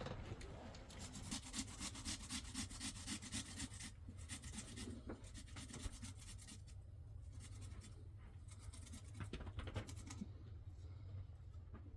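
Rapid scraping strokes, several a second, in a long spell over the first few seconds and a shorter one near the end.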